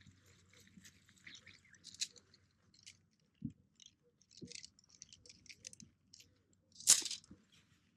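Rustling and scraping of tent fabric and gear being handled during tent pitching with trekking poles, with small clicks and one sharp knock about seven seconds in.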